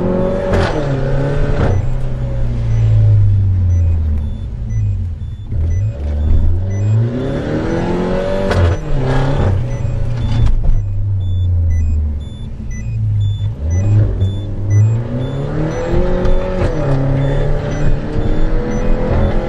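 Peugeot RCZ 1.6 THP turbocharged four-cylinder running through an aftermarket exhaust with downpipe, revving up and dropping back three times, with a few sharp cracks near the top of some revs.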